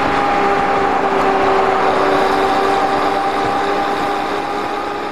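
BMW 3 Series (E9x) engine heard from inside the cabin at speed: a steady engine drone that sags slowly in pitch and level, over wind and road noise.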